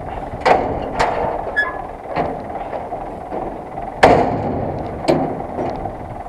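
Zetor 6911 tractor running with a steady rumble, broken by about five sharp metallic knocks and clanks, as of equipment or a load banging.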